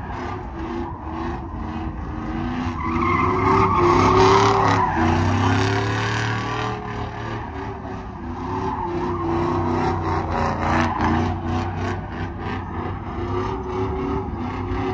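Truck doing a burnout: the engine is held at high revs while the rear tyres spin and squeal, swelling about four seconds in, easing, then building again.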